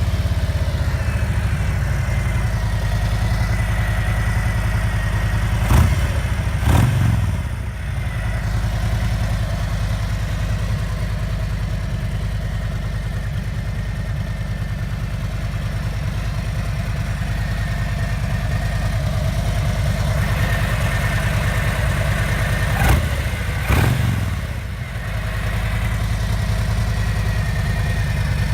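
Harley-Davidson Street Glide's Milwaukee-Eight V-twin idling through a Rinehart Racing Slimline full exhaust, blipped twice in quick succession about six seconds in and again near the end.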